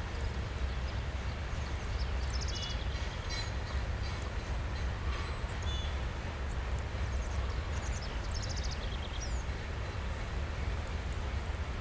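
Freight train rolling past as a steady low rumble, with songbirds singing over it in short trills and whistled notes.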